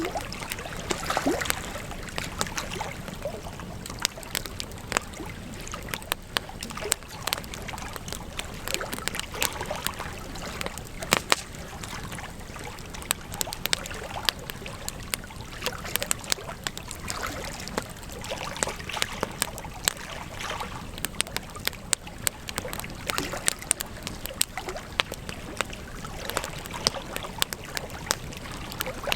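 Wood campfire crackling: frequent, irregular sharp pops and snaps over a steady hiss of burning.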